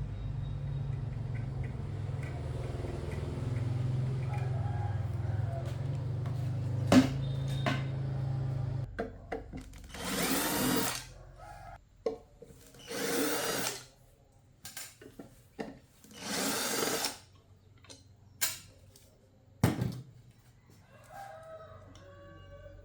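A small motor-driven tool hums steadily for about nine seconds, then stops. Three short hissing bursts of about a second each follow, with a few sharp clicks.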